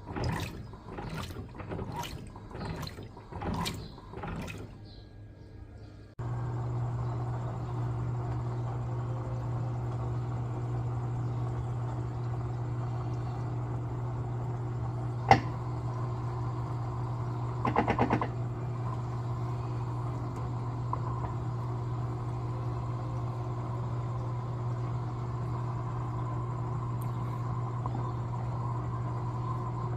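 Electrolux LTA15 top-loading washing machine: water splashes and sloshes in the tub in uneven strokes. About six seconds in, a steady low motor hum starts abruptly and runs evenly, with one sharp click and a brief rattle partway through.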